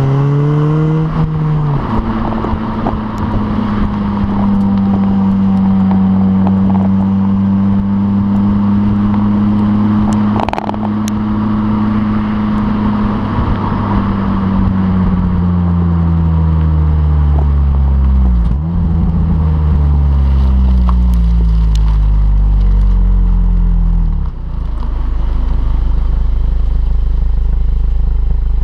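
Exhaust note of a stock 2007 Honda Civic Si's 2.0-litre four-cylinder engine, fitted with a short ram intake, under way. It revs up briefly, then drops about two seconds in as a gear changes, and holds steady. Through the second half it slowly falls in pitch, dips briefly around two-thirds in, and settles to a low steady drone near the end.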